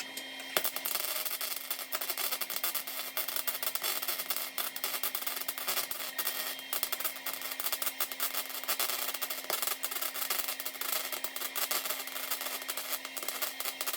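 Welding arc crackling and sputtering in a dense run of irregular clicks, starting about half a second in, with a steady low hum underneath.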